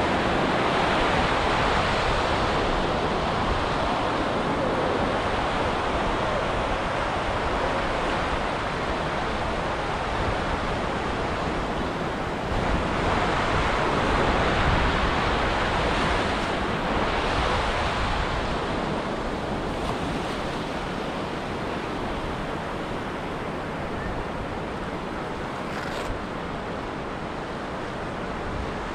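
Ocean surf breaking and washing up a beach: a continuous rush of waves that swells at the start and again about halfway through.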